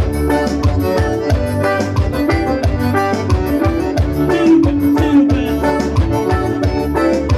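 Forró band playing an instrumental passage: a sustained accordion-like melody over a steady, quick percussion beat, with no singing.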